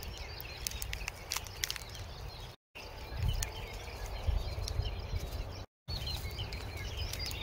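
Small birds chirping over a low, uneven rumble. The sound cuts out completely twice, briefly.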